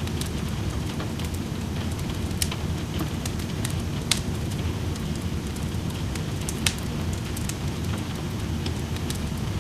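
Steady rain with a wood fire crackling in a fireplace: a continuous low rushing hiss under scattered sharp pops, three of them standing out a few seconds apart.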